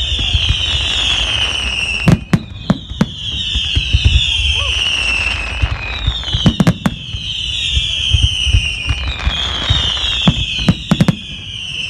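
Fireworks display: a steady chain of whistling fireworks, each high whistle falling in pitch and overlapping the next, with clusters of sharp bangs and a low rumble of bursts.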